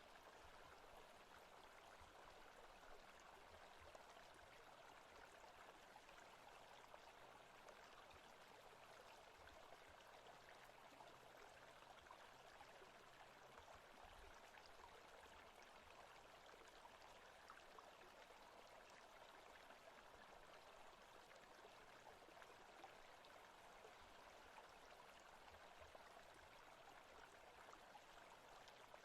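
Faint, steady running water of a forest stream, even and unbroken throughout.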